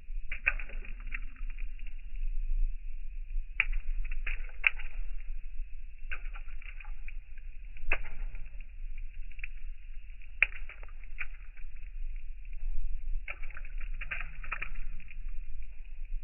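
Raindrops falling, heard as irregular taps and spatters, some louder single drops, over a steady low rumble.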